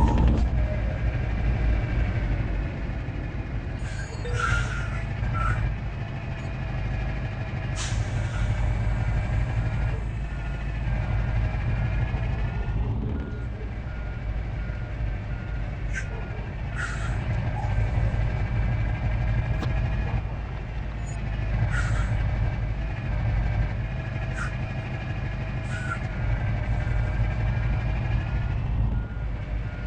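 A truck's engine running with its reversing alarm beeping steadily through much of the time, and several short hisses of released air.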